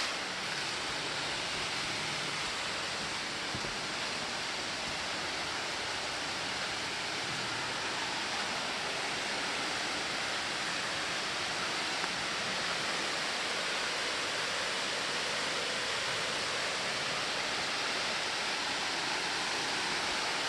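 Copperas Falls, a waterfall, pouring steadily: an even rushing of falling water.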